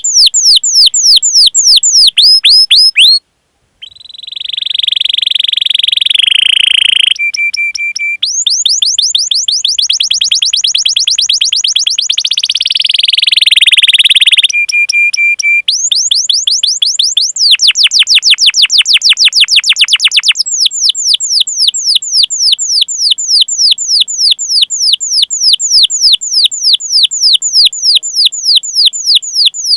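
Domestic canary singing: long runs of fast, high down-slurred 'cuit cuit' chirps, several a second, broken by rolled trills and a few short held notes, with a brief pause about three seconds in.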